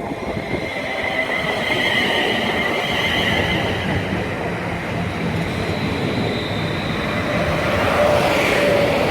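A train running past on the tracks: a rumble of wheels on rail with a steady high whine above it, growing louder to a peak near the end.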